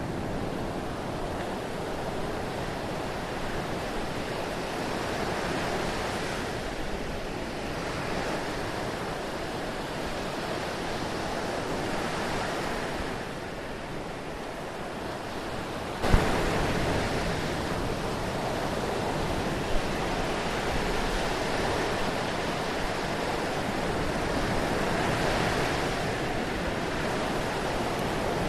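Surf washing in, a steady rush of water noise that swells and eases every few seconds. About halfway through it turns suddenly louder with a sharp click, and there is one brief knock a few seconds later.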